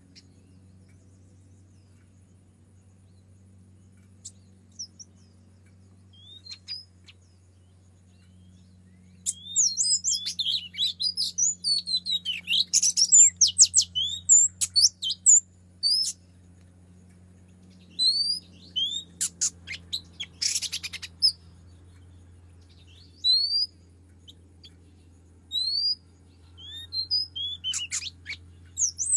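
Oriental magpie-robin (kacer) calling and singing: a few scattered chirps, then a fast burst of high, varied song notes, then single rising whistles repeated every second or two.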